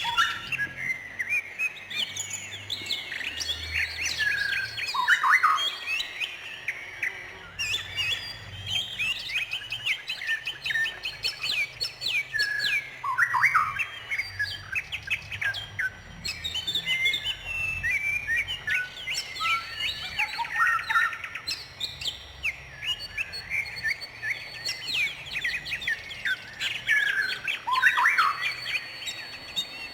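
Songbirds chirping and twittering in a dense, continuous stream of quick high notes. A downward-sweeping phrase recurs about every seven to eight seconds.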